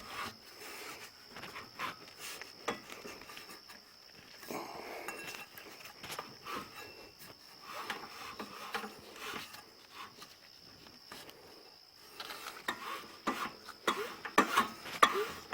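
Stuck small engine being worked back and forth by hand at its clutch, with oil down the plug hole to free a piston held by rust in the cylinder: faint scattered clicks, scrapes and rubbing, and louder knocks and clatter in the last couple of seconds.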